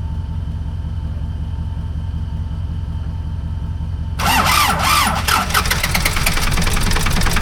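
A low steady rumble, then about four seconds in the Ford 555 backhoe's freshly rebuilt diesel engine fires and runs with a fast, even diesel knock. This is a cold start after the rebuild.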